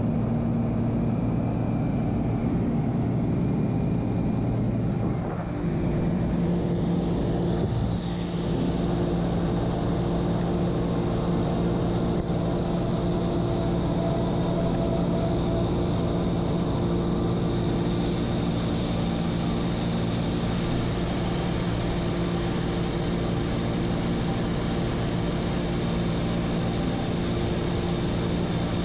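Seaplane's propeller engine droning steadily, with two brief dips in level about five and eight seconds in.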